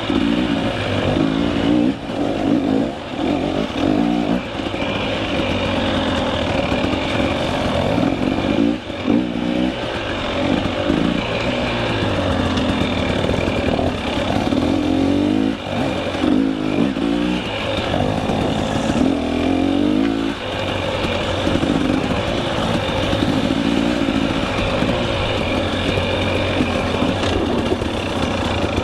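KTM 300 EXC two-stroke enduro engine being ridden on a rough trail, its revs rising and falling continually, with the throttle briefly shut off several times.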